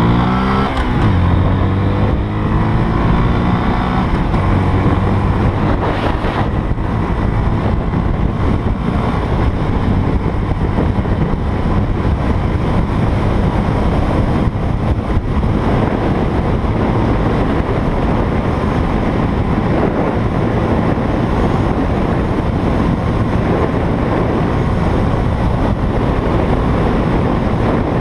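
Honda Grom's 125cc single-cylinder four-stroke engine running hard through an aftermarket Zoom slip-on exhaust on a speed run. Its pitch dips and climbs again about a second in, then it holds steady under heavy wind noise on the microphone.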